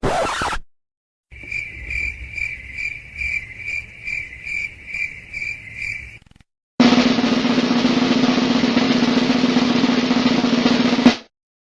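A short record-scratch stab, then crickets chirping in an even rhythm of about two to three chirps a second for around five seconds. Then a snare drum roll runs steadily for about four seconds and ends abruptly on a loud final hit.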